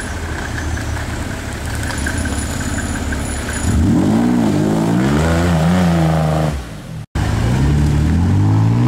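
Off-road vehicle engines revving under load in mud. A buggy's engine rises and falls in pitch as it climbs a steep bank. After an abrupt cut, a LuAZ-969's engine revs up as it drives through a mud hole.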